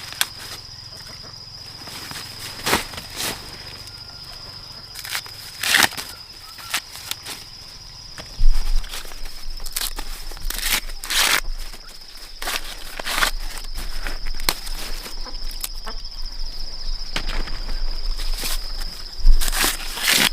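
Steady high-pitched insect drone, with irregular sharp crackling rustles of dry corn plants and footsteps through it. A low rumble joins from about eight seconds in.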